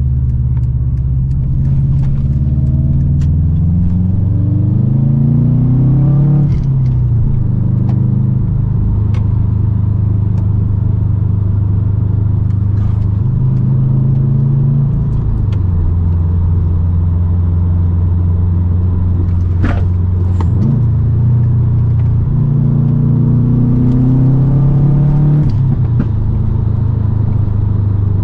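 2008 Subaru Impreza WRX STI's turbocharged 2.5-litre flat-four running through a full Invidia exhaust with catted downpipe, tuned to about 285 whp. The engine note climbs steadily for the first six seconds, settles into a steady cruise, climbs again briefly before dropping back, cruises, then climbs once more and falls away near the end as the car accelerates and shifts or lifts.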